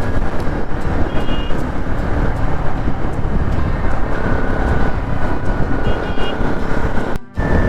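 Wind rushing over the microphone and road noise from a motorcycle riding at speed. Two short electronic beeps come through, about a second in and again near six seconds, and the sound drops out briefly near the end.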